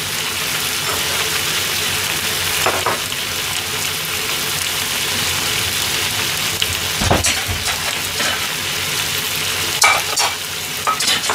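Sauce-coated yaki udon with cabbage and pork sizzling steadily in a wok over a gas flame, with a few short knocks about 3, 7 and 10 seconds in.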